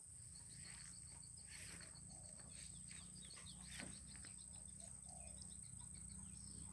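Faint swiftlet twittering: a quick run of small high chirps, repeated several times a second, over a steady high-pitched whine.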